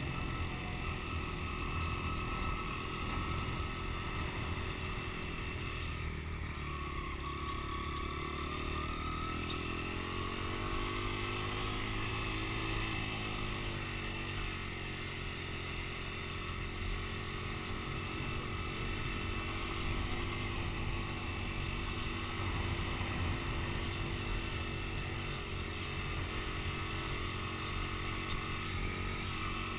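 Dirt bike engine running steadily, its pitch rising and then falling back between about eight and fourteen seconds in as the throttle changes.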